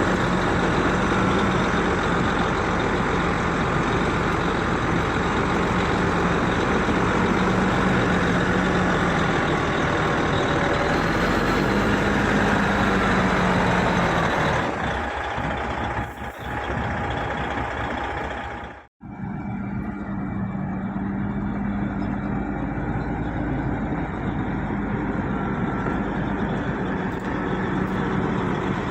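Heavy diesel earthmoving machinery running under load, a loud steady engine drone. About two-thirds of the way through, the sound cuts out for an instant and then the engines carry on.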